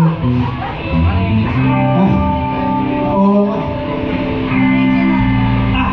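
Live band music with guitar playing held chords over low bass notes that change every second or so.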